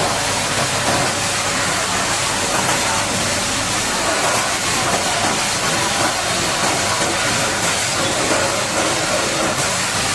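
High-pressure water jet spraying against a bulldozer, a steady loud hiss with no breaks.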